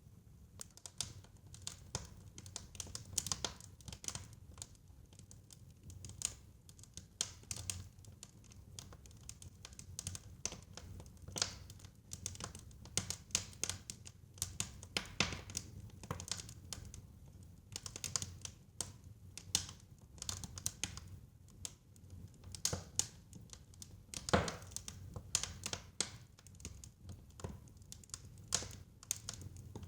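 Fire crackling in a fireplace: irregular pops and snaps over a steady low rumble, with one sharper pop late on.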